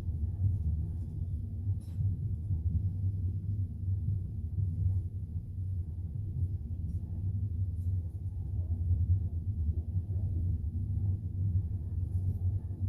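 Steady low rumble of a moving double-decker passenger train, heard from inside the carriage, with a few faint clicks from the wheels and car.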